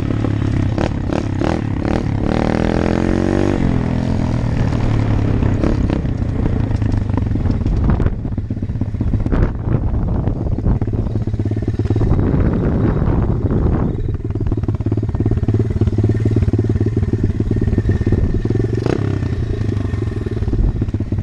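125 cc Apollo dirt bike engine running steadily, with clattering and scraping from the bike and a short rise in pitch about two to three seconds in.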